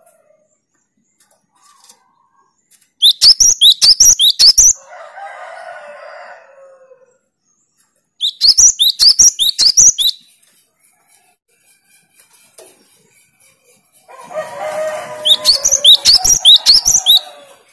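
Cinereous tit (gelatik batu) giving its rapid-fire song in three loud bursts, each a quick run of about ten sharp, high notes lasting under two seconds. Between the first two bursts, and again under the third, a lower, drawn-out call sounds for a couple of seconds.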